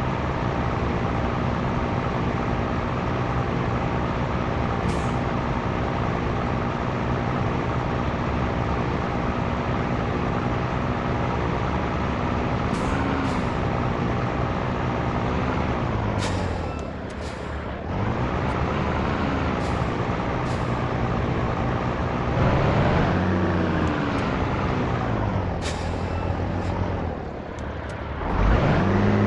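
Scania T113 truck's diesel engine running under way, a steady drone whose revs drop and build again several times, most markedly about halfway through and near the end. Several short hisses of air break in over it.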